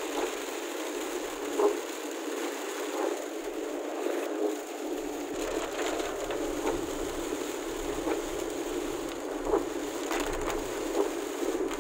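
Heavy rain beating on a moving vehicle's windshield and roof, heard from inside the cabin: a steady hiss with scattered sharp ticks of heavier drops or splashes.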